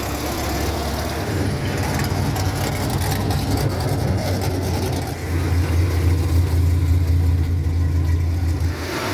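A car engine running with a deep, steady low rumble that grows louder about five seconds in and drops off just before the end.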